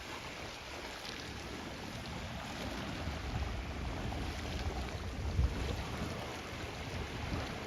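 Wind buffeting the microphone over a steady wash of sea surf on a shingle beach, with gusty low rumbles.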